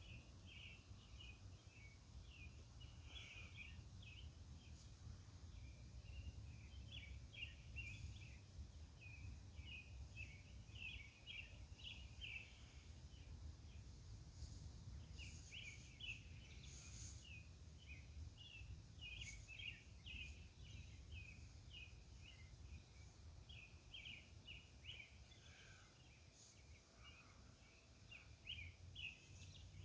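Near-silent night ambience: faint high chirps in quick runs, pausing briefly about halfway through, over a steady low distant rumble.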